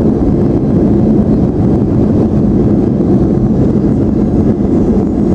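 Steady, loud low drone inside the cabin of a Boeing 737-800: engine and airflow noise with a faint constant hum.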